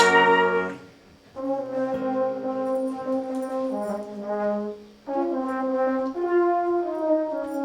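Brass band playing slow, sustained chords. A loud full-band chord cuts off just under a second in; after a short gap, softer held chords follow, shifting in harmony every second or two.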